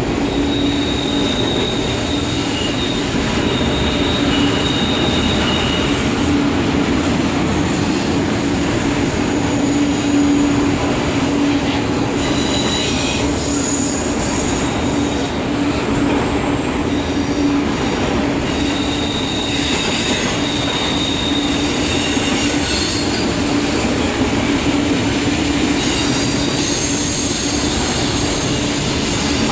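Double-stack intermodal freight train's well cars rolling past steadily, steel wheels running on the rail. Thin high wheel squeals come and go on the curve.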